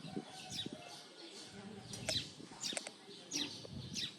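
Birds chirping: a string of short, high calls, each falling sharply in pitch, about one or two a second, with faint low rustling beneath.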